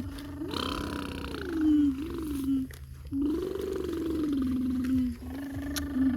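Truck engine running, its pitch rising and falling back a few times as it is revved and eased off, over a low steady hum.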